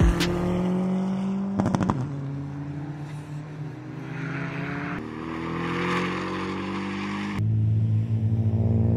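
Car engine pulling hard under acceleration, its pitch climbing steadily. It drops abruptly about five seconds in and climbs again. Near the end it changes suddenly to a louder, lower, steady note.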